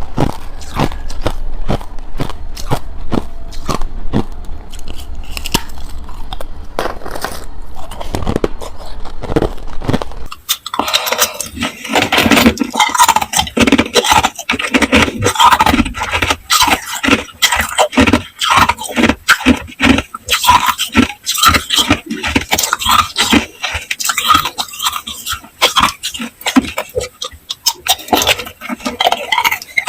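Hard, clear ice cubes being bitten and chewed close to the microphone, making a dense run of sharp cracks and crunches. About ten seconds in, a low hum underneath stops and the crunching turns louder and busier.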